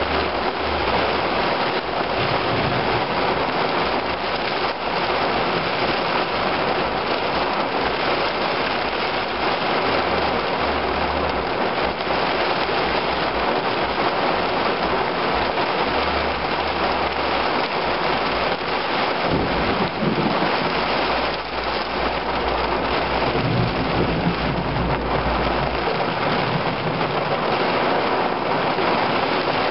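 Heavy thunderstorm downpour: dense, steady rain hiss. A deep low rumble builds in from about two-thirds of the way through and fades a few seconds later.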